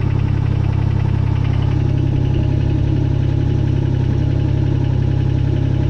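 2003 Kubota BX22 compact tractor's three-cylinder diesel engine running steadily.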